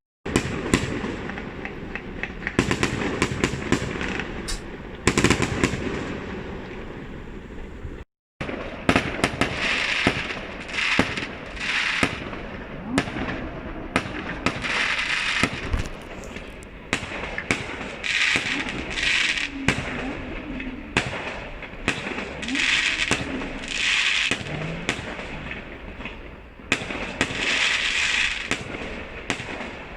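Fireworks going off: a dense string of sharp bangs, with bursts of crackle about half a second long repeating every second or two through the second half. The sound cuts out briefly at the very start and again about eight seconds in.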